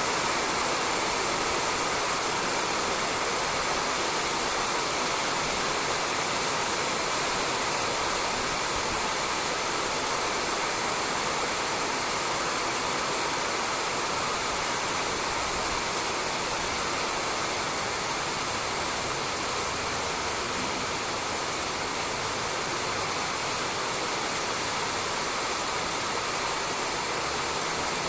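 Steady rain falling on a roof, an even continuous hiss of dense drops.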